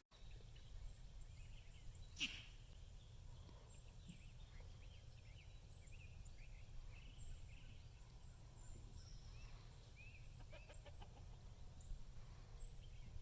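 Faint birds calling, short chirps scattered through a near-silent background, with one sharp click about two seconds in and a few soft ticks near the end.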